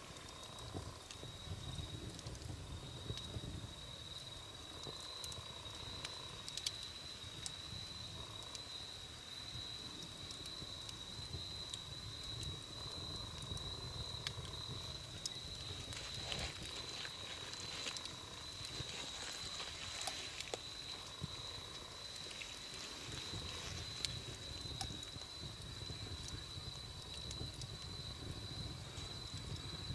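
Wood campfire crackling, with scattered sharp pops over a low, uneven rumble of burning. A steady high-pitched tone runs throughout.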